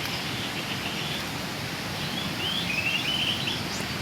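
Bird chirping in quick runs of short high notes over a steady outdoor hiss, a faint run early and louder runs in the second half.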